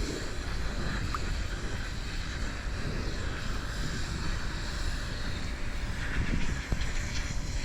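Wind buffeting the camera microphone: a steady, rumbling noise.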